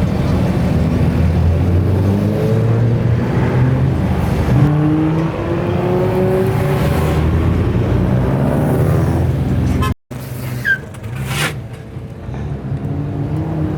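A car engine running and revving, its pitch rising and falling for about ten seconds. The sound breaks off abruptly about ten seconds in, and quieter traffic noise follows.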